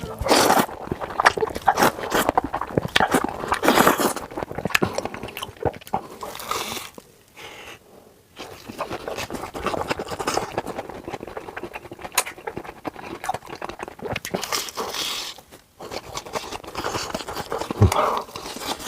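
Close-miked eating: a person chewing and crunching food in irregular bites, with a couple of brief pauses.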